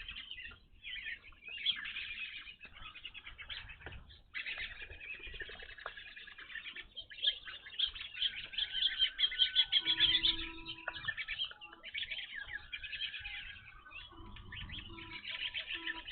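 A flock of evening grosbeaks calling: dense, overlapping short chirps, busiest around the middle. A low note repeats a few times in the second half.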